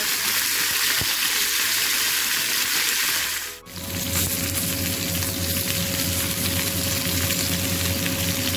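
Chicken breast fillets sizzling on a hot ridged grill pan, with a spatula scraping against the pan as the pieces are turned over to grill the other side. The sizzling breaks off briefly about three and a half seconds in, then goes on with a low steady hum underneath.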